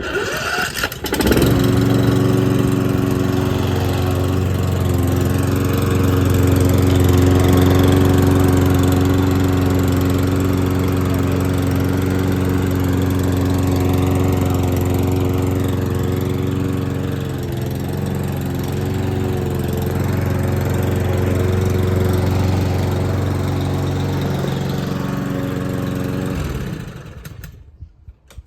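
Toro TX 159 petrol lawn mower engine catching about a second in and running steadily. Near the end it winds down and stops.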